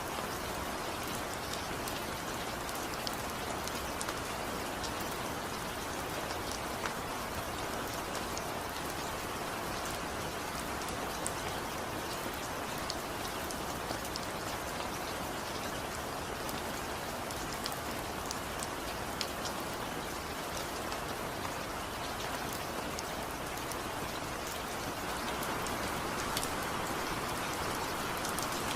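Steady rainfall, a continuous even patter with individual drops ticking on a surface, without thunder; it swells slightly near the end.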